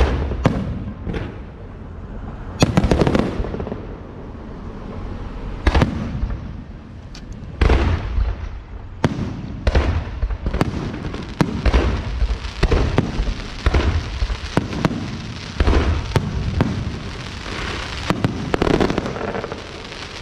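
Fireworks going off: about twenty sharp bangs at irregular intervals over a steady crackling haze.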